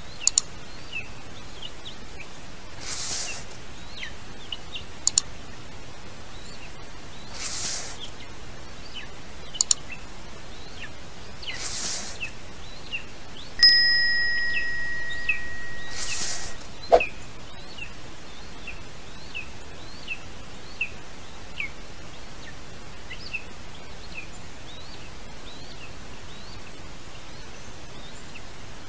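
Short, high, downward-sliding bird chirps, many of them, scattered throughout over a light hiss that swells briefly every four to five seconds. About halfway through, a bell chime rings out as one held tone for about three seconds and then cuts off: the sound effect of a subscribe-and-bell notification overlay.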